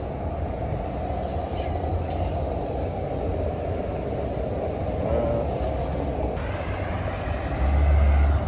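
A car being driven: steady engine and road rumble, with a deeper, steady engine hum coming in near the end and getting louder.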